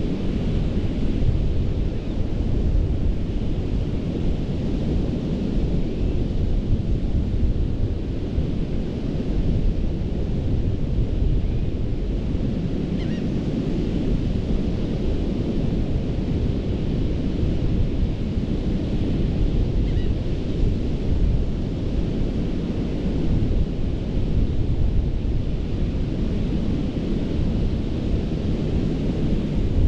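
Surf breaking on a sandy beach, a steady wash of waves that swells and eases, with heavy low rumble from wind on the microphone.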